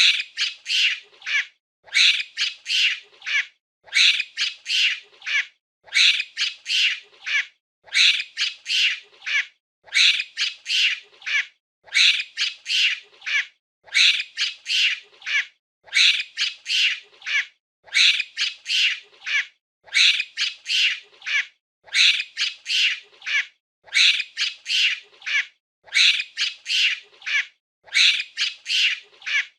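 Monkey calls: groups of four or five rapid, shrill squawking cries, one group every two seconds in an even, repeating pattern.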